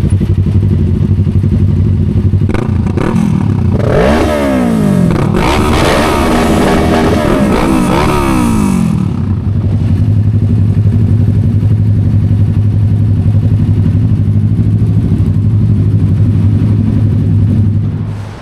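Motorcycle engine running steadily under way, revving up and down several times about four seconds in before settling back to a steady drone; the sound drops away abruptly at the end.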